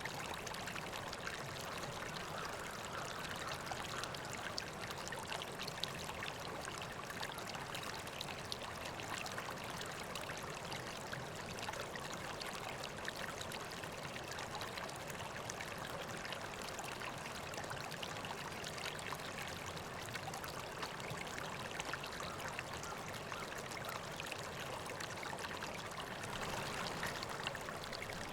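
River water flowing steadily over rocks, a continuous rush with many small splashes, swelling slightly near the end.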